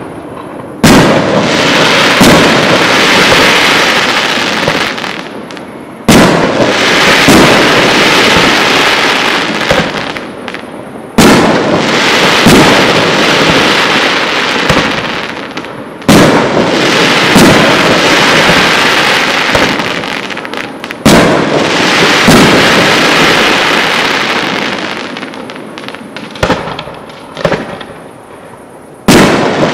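Aerial firework shells bursting one at a time, roughly every five seconds: about six loud bangs, each followed by a long crackle that fades over several seconds.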